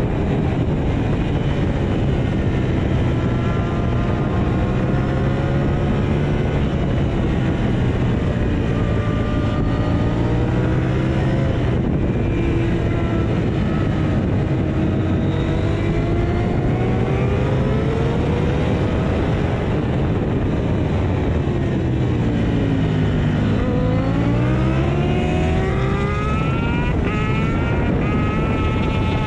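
KTM 890 Duke R's parallel-twin engine pulling hard on track, with heavy wind rush. Its pitch rises and falls through the gears, dips low a little over twenty seconds in as the bike slows for a corner, then climbs steeply again.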